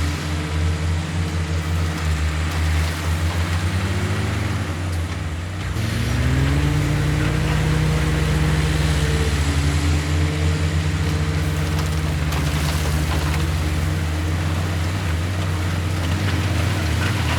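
Heavy diesel engine of earthmoving machinery running, revving up about six seconds in and holding steady at the higher speed.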